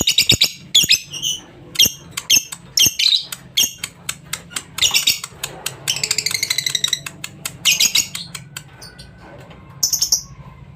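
Lovebird chattering: rapid high-pitched chirps, clicks and trills in dense repeated bursts, thinning out near the end before one last short burst.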